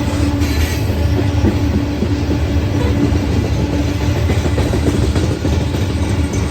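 CSX coal train's cars rolling past, a steady rumble of steel wheels on rail with a faint on-and-off hum above it.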